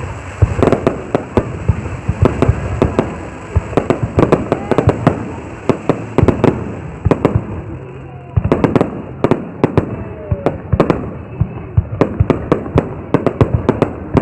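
Fireworks display: shells bursting in loud, sharp bangs, several a second in an irregular barrage, with a brief lull about eight seconds in before the bangs pick up again.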